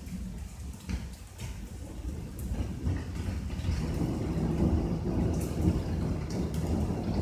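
Thunderstorm: a low rolling rumble of thunder that builds about two and a half seconds in and keeps going, over rain with scattered drops ticking.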